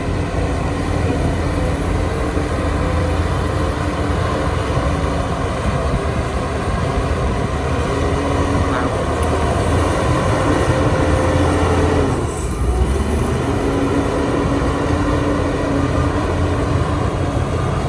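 Heavy diesel earthmoving machinery running steadily with a deep rumble, the engine sound dipping briefly about twelve seconds in.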